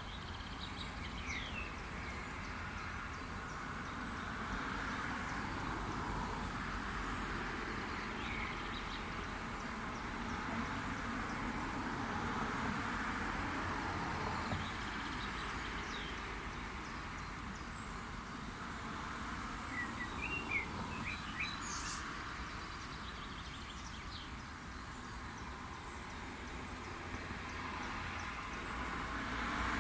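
Outdoor ambience: a steady rushing noise that slowly swells and fades, with short bird chirps here and there and a quick cluster of them about twenty seconds in.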